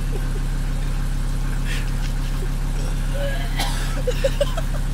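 Car engine idling steadily. About three seconds in, a few short high squeaks come over it.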